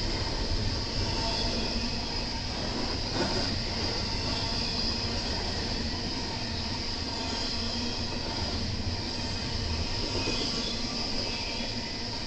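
BNSF intermodal freight train's cars rolling past on the rails: a continuous rumble of steel wheels with a steady high-pitched band on top.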